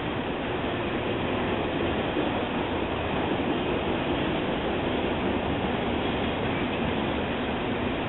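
Freight train of autorack cars rolling past at slow speed: a steady, even rolling noise of steel wheels on rail.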